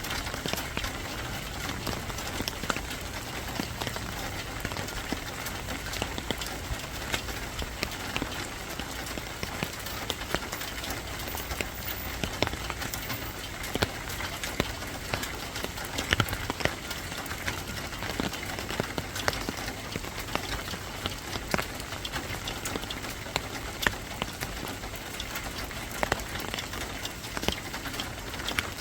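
Steady rain: an even hiss of falling rain with many separate sharp drops striking a surface.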